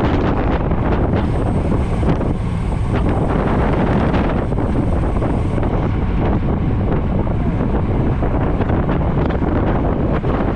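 Heavy wind buffeting on the microphone of a camera travelling on a road bike at speed, a steady loud rush with constant gusty flutter.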